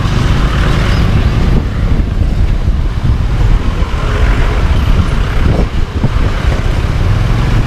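Wind rumbling on the microphone of a moving motorcycle, with the motorcycle and road noise underneath; a steady, loud low rumble.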